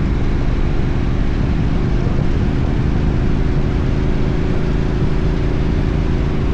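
Motorcycle engine running steadily while riding at an even speed, over a constant rush of road and wind noise.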